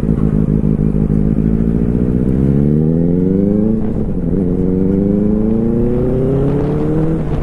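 Superbike engine accelerating: its note climbs steadily, drops at a gear change about four seconds in, then climbs again before another upshift at the very end.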